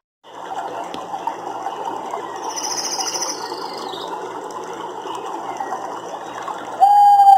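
Nature soundscape: a dense chorus of rattling chirps from insects or frogs, a fast high trill about three seconds in, and a loud, steady whistled note that starts near the end. The sound drops out for an instant at the very start.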